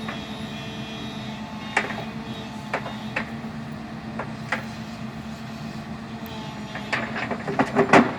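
Backhoe engine running steadily, with a few sharp knocks and a burst of clattering near the end.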